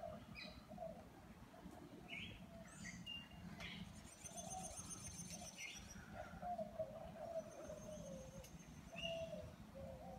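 Several birds calling in a garden: scattered short high chirps, a few longer high trilling calls, and repeated lower drawn-out notes.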